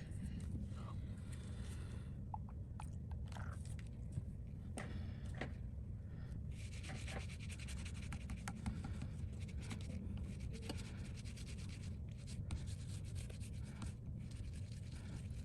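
Rubbing and scraping on an iPhone display panel as it is cleaned of old glue, with scattered small clicks over a steady low hum.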